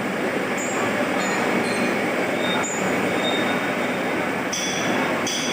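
Metal lathe running: a steady mechanical noise with short high squeals coming and going, the strongest two near the end.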